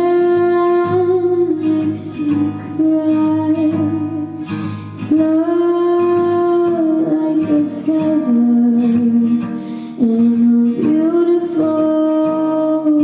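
A woman singing long held notes without clear words over a strummed guitar. The notes step down and back up between holds.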